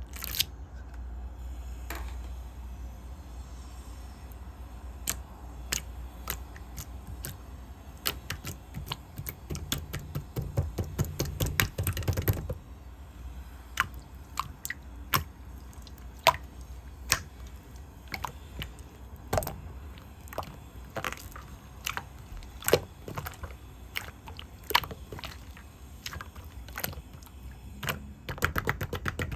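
Yellow slime being kneaded and pressed by hand, giving sharp clicking pops: a fast run of them for a few seconds, then single pops about once a second.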